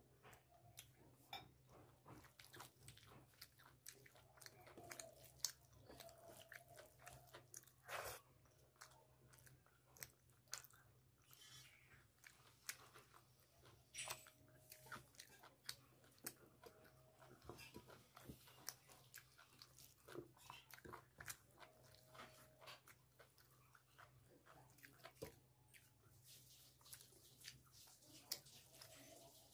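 Faint close-up chewing of chicken curry and rice: irregular wet smacks and clicks of the mouth.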